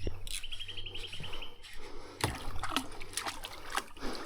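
Water splashing and sloshing at the side of a fishing kayak, with a few sharp knocks. Early on, a brief fast run of high ticks lasts about a second.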